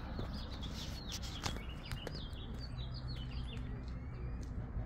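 Small birds chirping outdoors: a quick run of short, high chirps in the first half, then fainter calls, over a steady low rumble.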